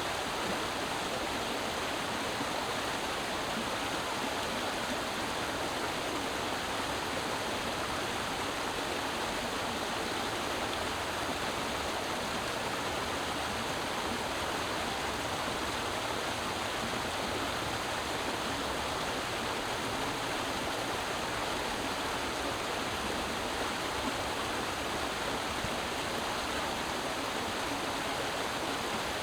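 Creek water running over rocks in a steady, unbroken rush.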